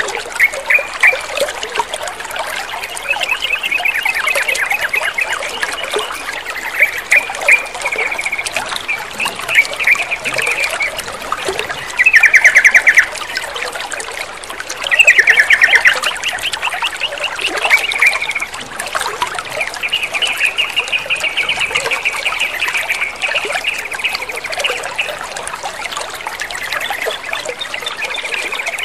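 Yellow-vented bulbul (trucukan) singing in repeated quick, chattering phrases over a steady trickle of running water. The loudest bird bursts come about twelve and fifteen seconds in.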